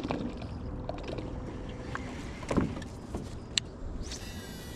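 Small boat sounds on a river: steady water noise with a few scattered knocks, the loudest about two and a half seconds in, and a sharp click a second later. A high, steady whir begins near the end.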